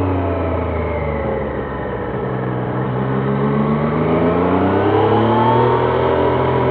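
Triumph Trident 660's inline three-cylinder engine heard from the rider's seat. Its pitch drops over the first two seconds as the bike slows, then rises steadily for about three seconds as it accelerates, and holds near the end.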